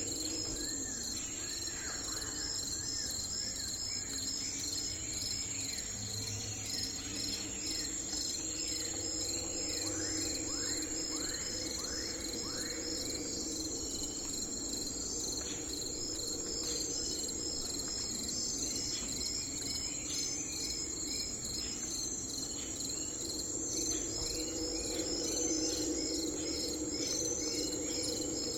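Crickets chirping steadily in a forest-lake night ambience, with occasional bird calls, including a quick run of five falling whistles about ten seconds in.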